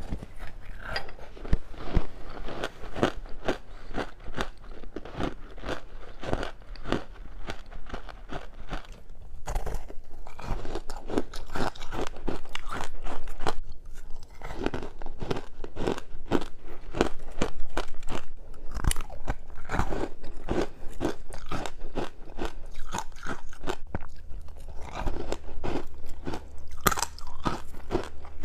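Close-up biting and chewing of juice-soaked freezer frost: a quick, continuous run of crisp, icy crunches with a couple of brief pauses.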